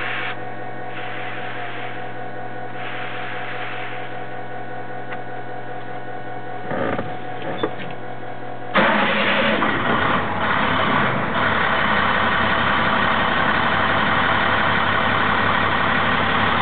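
International DT466E diesel in a 2002 International 4300 truck, cold-started: a steady hum for the first half, then about nine seconds in the engine cranks and fires. It settles after a couple of seconds into a steady idle.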